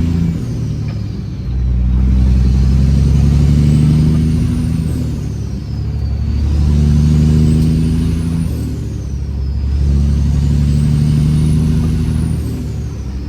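Straight-piped Detroit Series 60 inline-six diesel in a Peterbilt 389 pulling hard through the gears under load. A high turbo whistle rises with each pull and falls away at each shift, with about three shifts.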